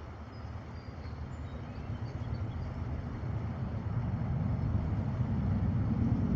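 A vehicle engine's low rumble, growing steadily louder as it draws near.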